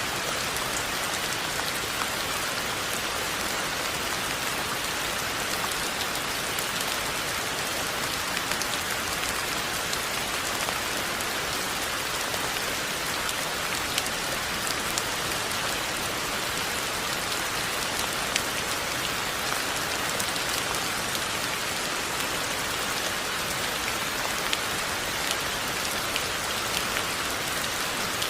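Steady rain falling on surfaces, an even hiss with scattered sharp ticks of individual drops.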